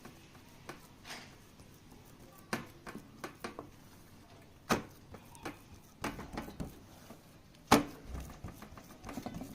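A string of irregular knocks and clatters, the two loudest sharp ones about five and eight seconds in.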